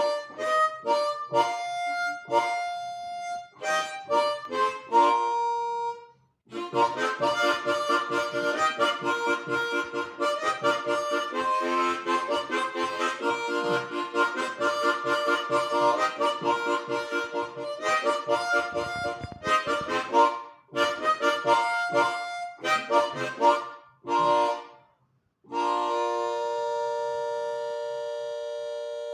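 Harmonica playing a tune: separate short notes at first, a dense continuous run of notes through the middle, more separate notes, and a long held note near the end.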